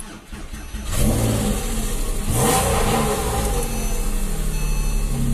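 Porsche 911 Carrera 4S flat-six with sport exhaust starting: it catches about a second in, flares up briefly, then settles into a steady idle.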